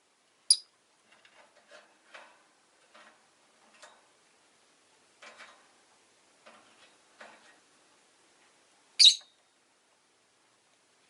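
Rosy-faced lovebirds calling: two short, sharp, high-pitched shrieks, about half a second in and again near the end, with softer scattered chirps and clicks in between.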